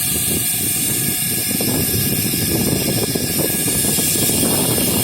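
Heavy machinery running with a loud, steady mechanical noise and a strong hiss.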